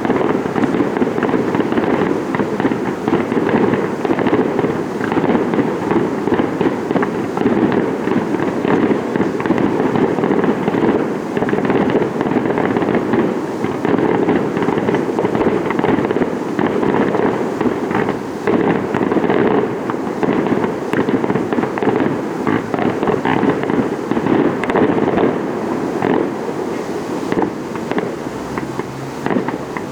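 Fireworks display going off in a dense, continuous barrage of closely packed bangs and crackles, easing a little near the end.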